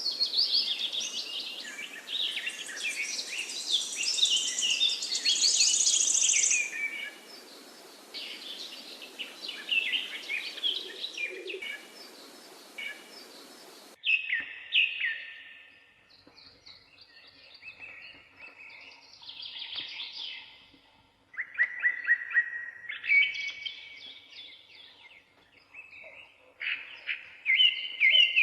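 Several birds chirping and singing, rapid overlapping calls and trills, over a steady hiss that cuts off abruptly about halfway through. After that the songs come as clearer, separate phrases against a quieter background.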